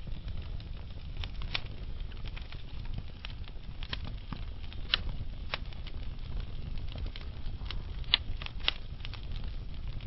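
Wood fire burning in a fireplace: irregular sharp crackles and pops from the burning logs over a steady low rumble of the flames, with the loudest pair of pops coming about eight seconds in.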